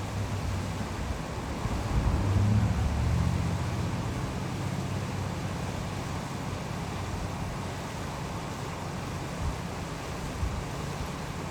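Steady rush of a waterfall. A low hum rises about two seconds in and slowly fades.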